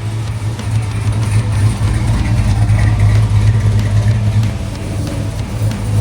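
A car engine running at low revs, with a steady deep exhaust rumble.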